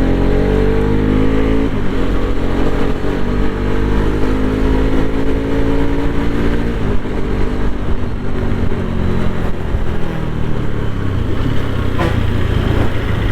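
Bajaj Pulsar RS200's single-cylinder engine running under way, heard from the bike. Its pitch rises slowly over the first several seconds as it accelerates, then it settles into a noisier, steadier run.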